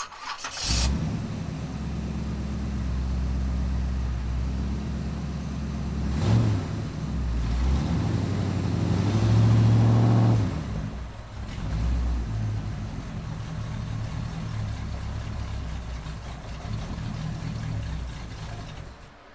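Roots-supercharged engine of a pro street 1974 Mustang II running at idle, revved briefly about six seconds in, then revved up harder for about two seconds before dropping back to idle.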